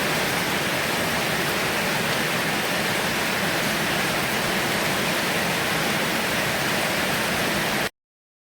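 Heavy rain falling as a dense, even hiss, cutting off abruptly near the end.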